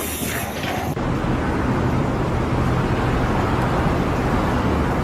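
A steady engine rumble with a low hum, starting abruptly about a second in.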